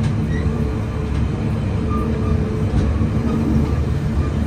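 Running noise inside a moving Taiwan Railways Fu-Hsing passenger coach: a steady low rumble of the train travelling through an underground station.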